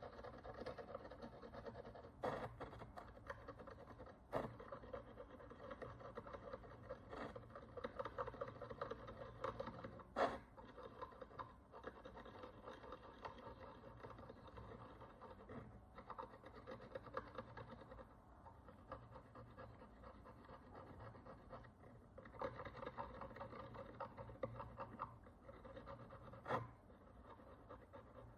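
Faint, steady scratching and scraping of a small hand tool working the crust of dirt and oxidation off an ancient Roman bronze coin, with a few sharp ticks of the tool against the metal, the loudest about ten seconds in.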